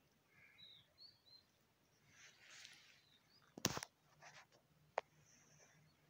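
Faint, scattered bird chirps over quiet outdoor ambience. A short, sharp knock a little past halfway is the loudest sound, and a single click follows about a second later.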